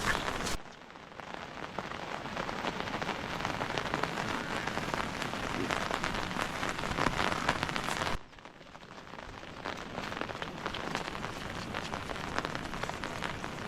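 Steady rain falling, with many separate drops heard. It drops off suddenly about half a second in and again about eight seconds in, then builds back up.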